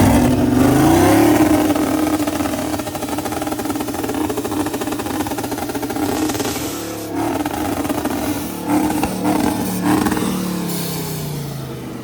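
Twin-turbo LS V8 engine revving hard and holding high revs during a burnout attempt. It then gives a string of short blips before the revs drop away near the end.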